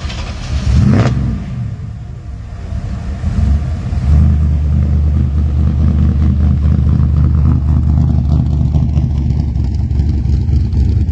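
A vehicle engine revs briefly about a second in, then settles into a steady low running note from about four seconds on.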